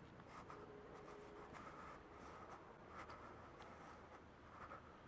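Near silence, with faint scratchy rustling and a few soft ticks.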